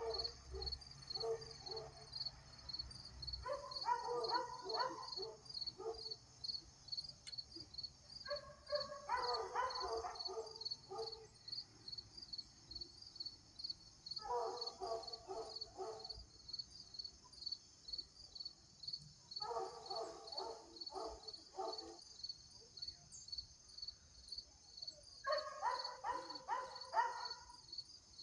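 Insects chirping steadily in a high, pulsing drone of about three pulses a second, while a dog barks in bouts of several barks, about every five seconds.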